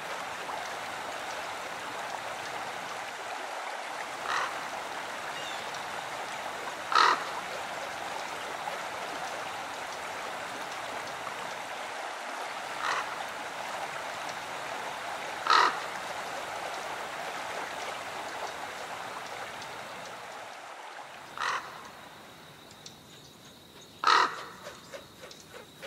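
A bird calling in short single harsh calls, about six of them spaced a few seconds apart, over a steady hiss that fades near the end.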